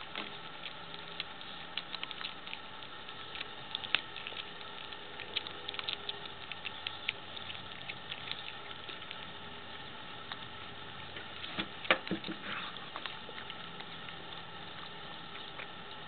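A cat chewing raw chicken on the bone: irregular crunching and cracking clicks, with the loudest cracks about 4 and 12 seconds in, over a steady background hiss.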